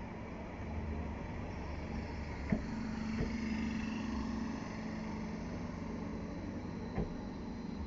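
Electric passenger train arriving at a station platform: a steady electric hum with a few sharp clicks and a faint high squeal a few seconds in.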